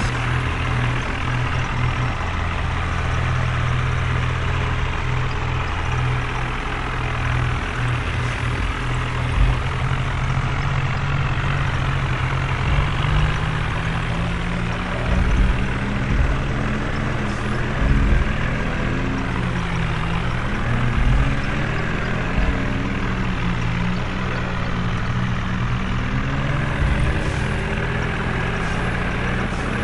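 Tractor engine running steadily, its pitch shifting up and down with the revs from about twelve seconds in, with a few low thumps.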